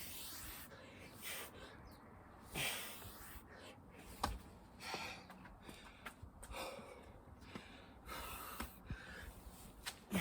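A man breathing hard, loud gasping breaths in and out about every second or so, with a few short knocks mixed in, as during a set of burpees and chin-ups.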